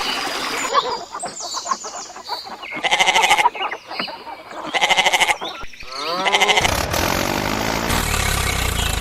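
Three short quavering animal calls, each under a second, followed from about two-thirds of the way in by a steady engine rumble.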